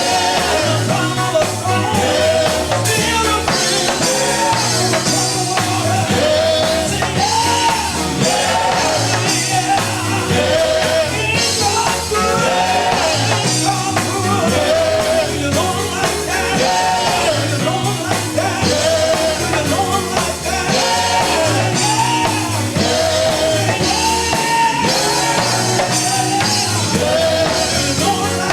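Live gospel group singing with band accompaniment: voices carrying the melody over a stepping bass line and drums.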